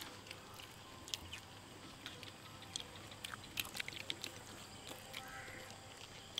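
People eating bread spread with apple jam: faint, irregular clicks of chewing.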